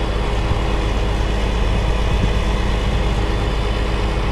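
A vehicle engine idling: a steady low rumble with an even hum.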